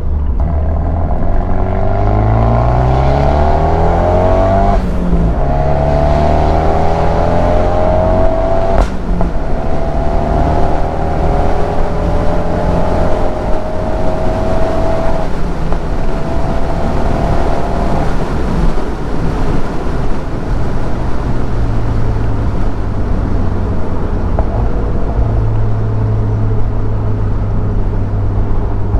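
Abarth 124 Spider's turbocharged 1.4-litre four-cylinder, with an enlarged turbo and a Ragazzon exhaust, pulling hard. The engine note climbs through successive gears, broken by upshifts about 5, 9 and 15 seconds in, then eases off to a steady, lower cruising note for the last ten seconds or so.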